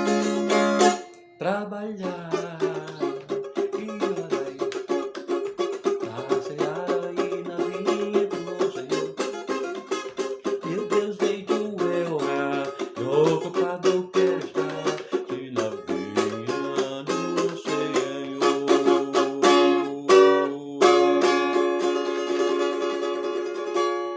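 Cavaquinho strummed in quick, even strokes, playing a hymn tune over a lower melody line that moves step by step. Near the end a final chord is held and rings out, fading away.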